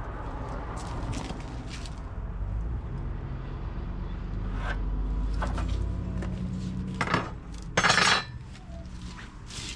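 Knocks and clinks of hard objects being handled over a low steady rumble, with one louder clattering scrape lasting about half a second near the end.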